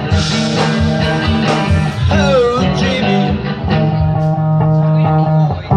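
Live rock band playing, with guitar prominent over bass and a steady beat; a note bends and wavers about two seconds in.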